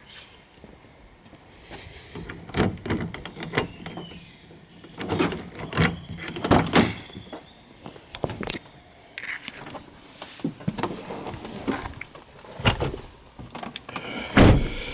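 Irregular clicks, knocks and rattles of things being handled, several a second at times, with no engine running.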